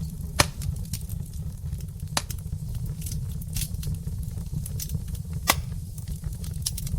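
Wood fire burning logs in a fireplace: a steady low rumble under constant small crackles, with a few louder, sharp pops.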